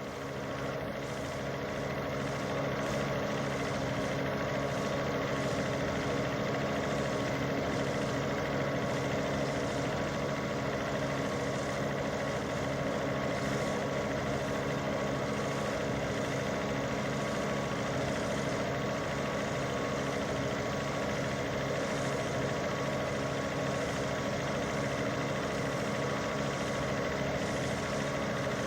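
An engine running steadily, idling at an even pitch, with a constant rushing noise underneath.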